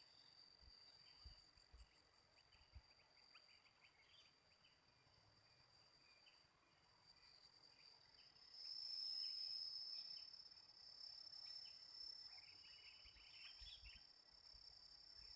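Faint outdoor ambience: a steady high-pitched insect drone that grows louder about halfway through, with scattered faint bird chirps.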